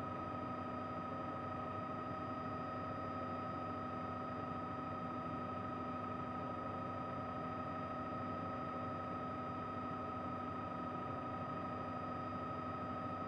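Helicopter running steadily in flight: a constant hum with several steady whining tones that do not change.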